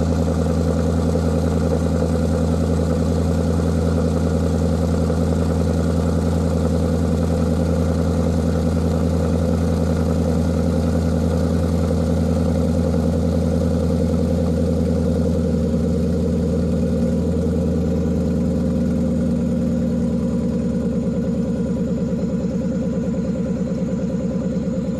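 2020 Ford Mustang GT's 5.0 V8 idling steadily through SVE axle-back mufflers and a resonator-delete H-pipe, a deep tone that is not as raspy. It settles slightly quieter about two-thirds of the way through.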